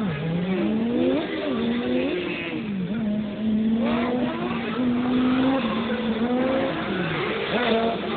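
A car's engine revving up and down through a slalom course, its pitch dipping and climbing several times as the driver lifts and accelerates between cones, holding fairly steady for a few seconds midway.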